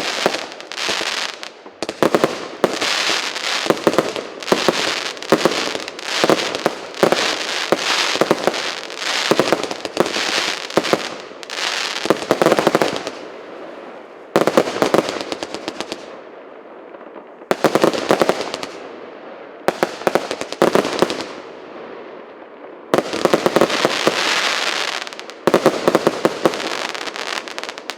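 A fireworks battery (cake) firing volley after volley: dense runs of loud bangs and crackling. In the second half the volleys come in separate bursts with short quieter pauses between them.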